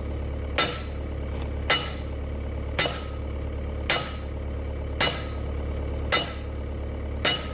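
Steady hammer blows on steel, seven in all, about one a second, each with a short metallic ring: a pin being knocked out of a bulldozer track chain. A low engine hum runs underneath.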